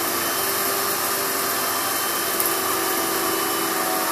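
Kenmore 600 Series bagless vacuum cleaner running steadily with an even, unchanging motor hum as its power nozzle is pushed slowly over sandy carpet.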